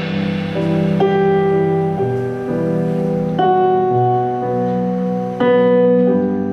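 Piano playing slow held chords with no singing, a new chord struck every one to two seconds.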